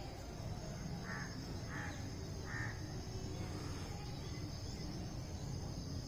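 A bird calling three times, short calls less than a second apart, over a steady low rumble and a faint steady high hiss.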